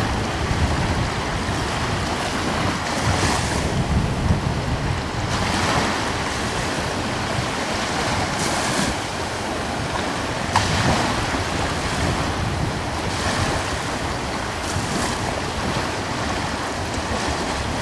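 Small sea waves washing in and breaking every two to three seconds over a steady wash of surf, with a light coastal wind rumbling on the microphone.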